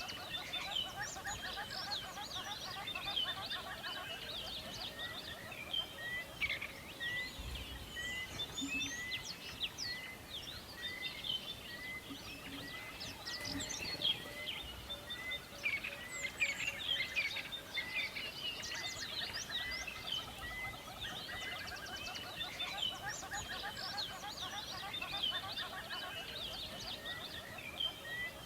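A dawn chorus of many birds chirping and singing in a forest, one short note repeated about once a second beneath overlapping trills and a lower pulsing trill.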